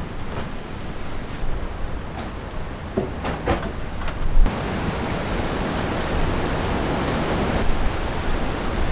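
Storm wind and rain making a steady rush of noise, with a few sharp knocks a few seconds in; the rush grows fuller about halfway through.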